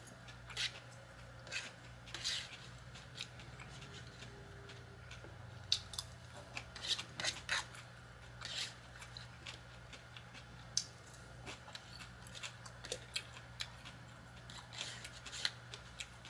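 Close-miked eating: irregular short, sharp clicks and crunches, a few louder ones in the middle, over a low steady hum.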